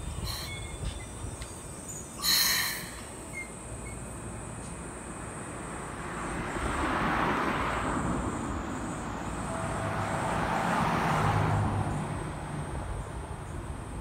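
Keikyu electric train running along the tracks: a broad rushing wheel-and-rail noise that swells twice and fades, after a brief loud rattle about two seconds in.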